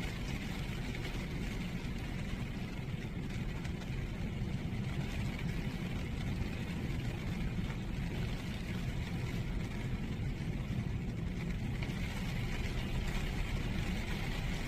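Rain falling on a beach with sea waves washing ashore: a continuous rushing hiss over a low rumble.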